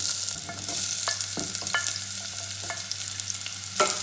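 Chopped onion and ginger sizzling in hot cooking oil in a stainless steel pot. A wooden spoon knocks and scrapes several times as it pushes the onion in and stirs, with a sharper knock near the end.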